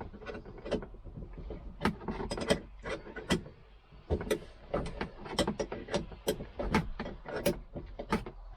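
Irregular sharp metallic clicks and knocks, roughly two or three a second, over rustling handling noise: a 14 mm wrench working the seat belt's upper mounting bolt in a cramped space.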